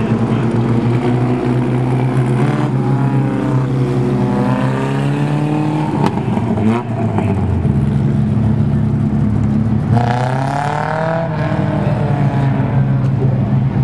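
Several race car engines running hard on an oval track, with cars passing and their engine pitch swinging up and down about three seconds in and again about ten seconds in.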